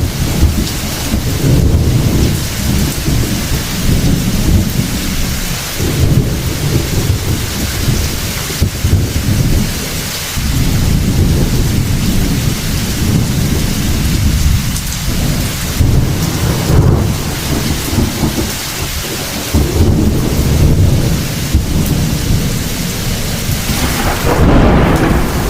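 Heavy thunderstorm: steady hard rain hissing throughout, with deep rolling thunder swelling and fading in repeated waves every few seconds.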